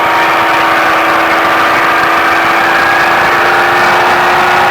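Ford Baja Truck's engine pulling hard under acceleration out of a corner, its note rising slowly and steadily.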